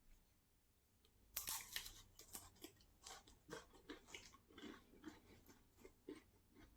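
A person chewing a dry cream-filled cracker: after a quiet moment, a sharp crunch about a second and a half in, then steady crunchy chewing about twice a second, growing softer toward the end.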